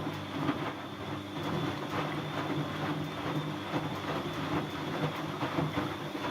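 Siemens Siwamat C10 washing machine running steadily, with a high motor whine over a low hum and a constant clattering rattle from the drum.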